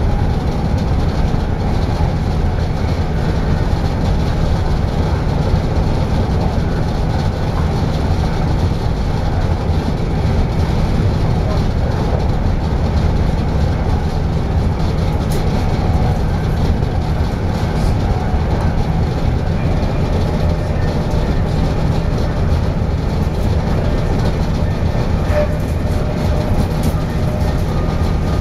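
Passenger train running at speed, heard from inside the carriage: a steady, low rumble of the wheels on the rails.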